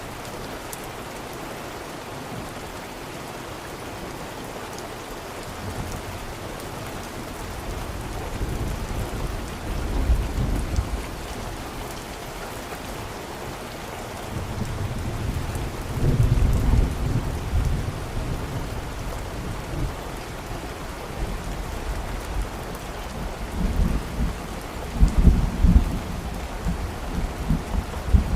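Steady rain falling, with low rolls of thunder that swell in about six seconds in, peak around ten seconds, again around sixteen seconds and near the end.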